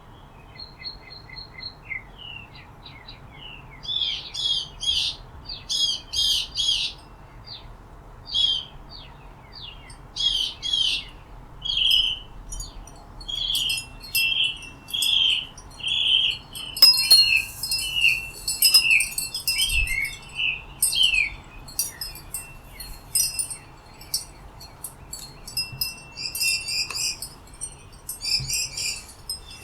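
Several songbirds chirping and singing with overlapping calls, including a run of repeated falling whistled notes in the middle.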